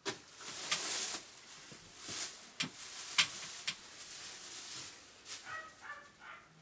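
Rustling, handling noise with several sharp clicks and knocks for the first five seconds, then a dog giving a few short, high whines near the end.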